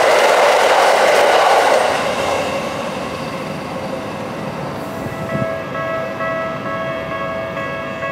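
An electric train runs past on the tracks below, its rumble loud for about the first two seconds and then fading away. From about five seconds in, a Japanese level-crossing alarm starts ringing with its repeating electronic ding.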